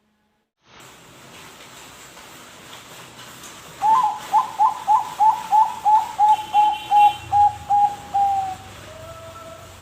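Zebra dove (perkutut Bangkok) singing: a run of about a dozen short, clipped coo notes at about three a second, ending in a longer drawn note and then a lower closing note. A steady hiss runs underneath.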